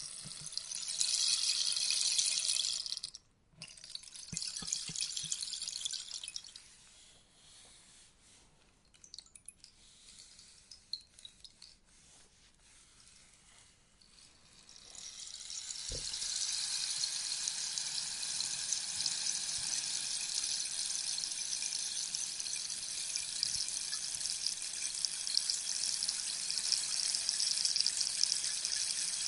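Rainstick: the pellets inside the tube trickle down in a rain-like rush that thins out to a few scattered ticks, then, after a low knock about halfway, start pouring again in a steady rush to the end.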